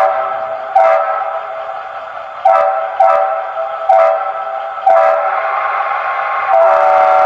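Bachmann HO scale Charger sound decoder playing a Leslie RS-5T air-horn sound: a chord of several tones sounded in six short blasts, then one longer held blast near the end.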